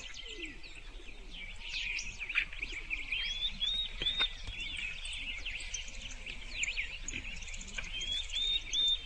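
Small birds chirping, a dense run of short high calls overlapping, with a quick three-note phrase about three seconds in and again near the end.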